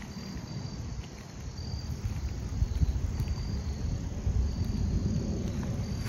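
Crickets chirping in short, high-pitched pulses repeating about once a second, over a low rumble.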